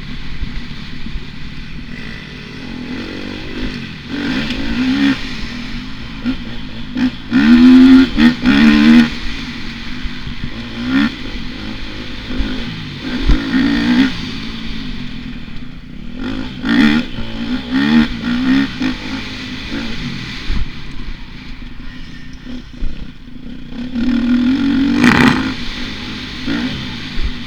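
Motocross dirt bike engine revving up and falling back again and again as it is ridden, with clatter from the bike. The revving is loudest about eight seconds in and again near the end.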